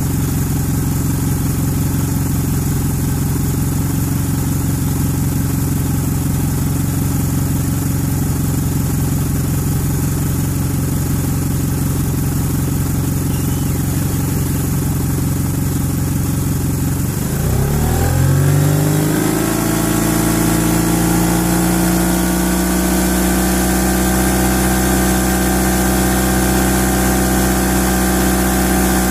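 1991 Eagle Talon TSi AWD's turbocharged 2.0-litre four-cylinder (4G63T) running steadily at idle. A little over halfway in, the engine speed rises and then holds steady at a higher speed.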